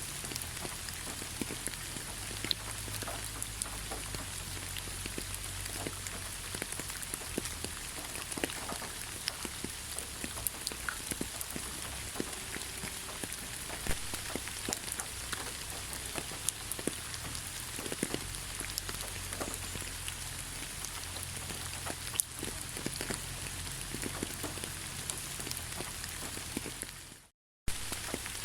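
Steady rain falling, with many individual drops ticking sharply over the hiss. It fades to silence for a moment near the end and then comes straight back.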